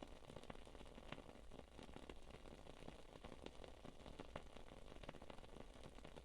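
Wood-wick candle crackling faintly, a soft, irregular run of small pops and ticks.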